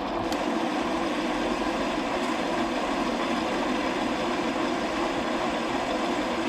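Metal lathe running at a steady speed, its motor and gear train giving a constant mechanical hum and whir.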